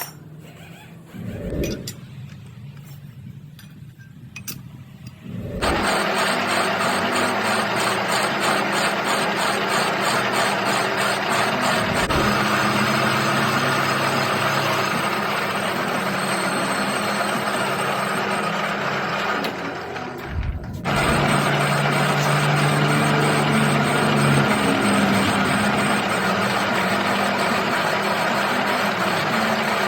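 Metal lathe running: after a few quiet seconds with a couple of thumps, the machine starts about five seconds in with a steady hum under a loud, even hiss, stops briefly about twenty seconds in, and starts again.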